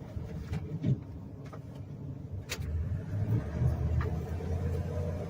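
Engine and road noise of a 1999 Dodge Ram 5.9 inside the cab, a steady low rumble that grows louder about three seconds in, with a few sharp clicks.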